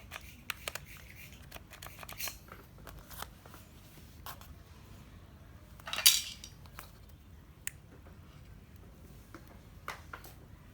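Small metal tool parts being handled on a workbench: scattered light clicks and taps, with one louder, longer clatter about six seconds in.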